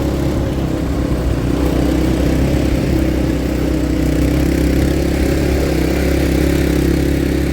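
ATV engine running steadily at a nearly constant speed.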